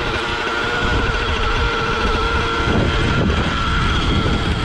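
O.S. 1.05 HZ-R nitro glow engine of an RC helicopter idling steadily just after starting, warming up with the glow plug off.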